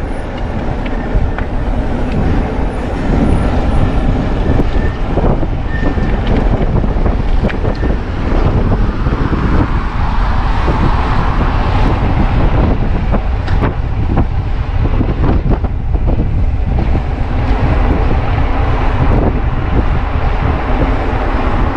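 Wind rushing over the microphone of a moving electric bicycle, with steady road noise and a car approaching from behind. Occasional short knocks throughout.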